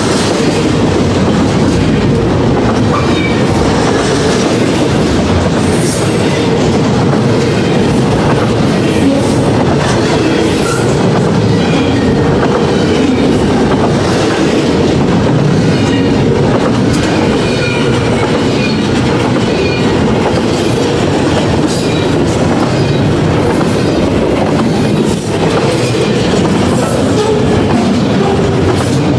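Double-stack intermodal container train passing close by: a steady loud rumble of steel wheels on the rails, with wheels clattering over rail joints and brief faint high squeals now and then.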